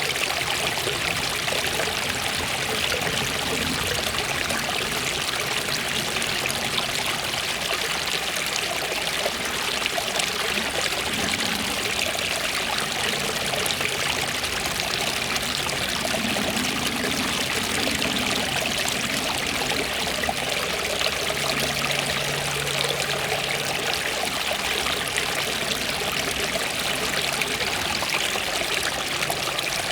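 Waterfall: falling water splashing and rushing in a steady, even wash of noise.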